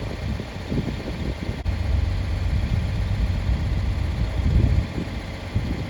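Tractor engine running, a steady low rumble that grows louder for a few seconds in the middle.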